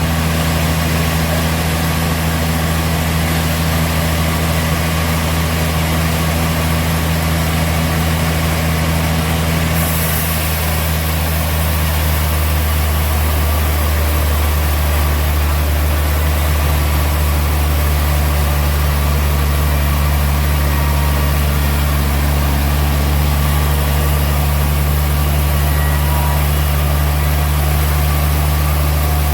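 Sawmill machinery running with a steady, loud low hum, its tone shifting slightly about ten seconds in.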